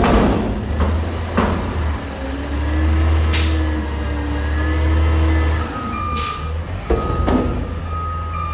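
Garbage truck's diesel engine running, working harder for a few seconds in the middle, with several sharp bursts of hiss like air brakes releasing. Near the end there is a repeated high beeping.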